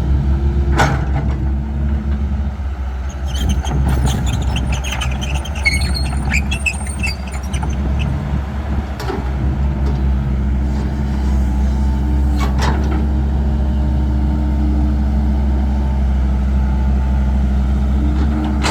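Caterpillar 312 excavator's diesel engine running steadily under a low drone, with a spell of short clattering and scraping about three to eight seconds in and a few single knocks.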